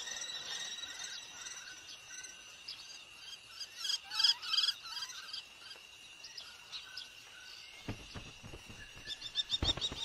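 Cuckoo chick begging: rapid trains of high-pitched chirps, with a louder bout about four seconds in, over a steady high-pitched buzz. A few low thumps come near the end.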